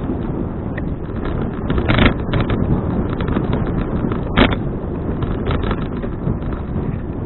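Wind buffeting an action camera's microphone during a bicycle ride, a steady low rumble. Sharp knocks sound at about two seconds in and again at about four and a half seconds, with a few lighter clicks, as the bike and mounted camera rattle over bumps.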